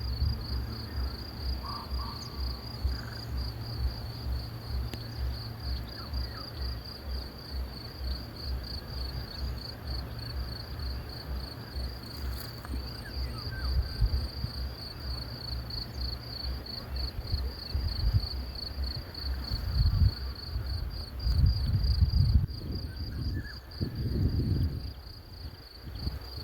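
Crickets chirping in a steady, pulsing high trill, with a low rhythmic pulsing underneath and low rumbling that swells in the last several seconds.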